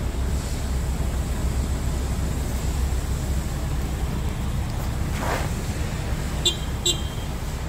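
Scania R450 truck's 13-litre inline-six diesel engine idling steadily, with a low even hum. A brief hiss comes about five seconds in, and two short high chirps follow close together near the end.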